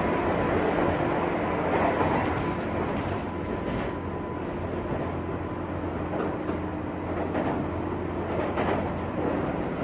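Interior running noise of a JR West 201 series electric train, heard from the motor car at speed: a steady rumble with constant humming tones and a few faint clicks from the rails.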